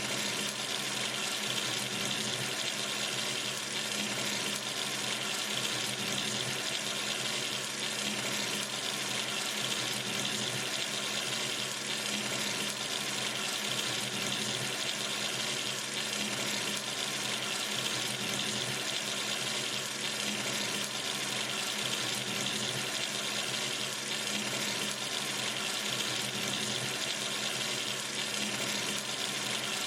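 Water running steadily from a sink tap into the basin, a constant even splashing with no change.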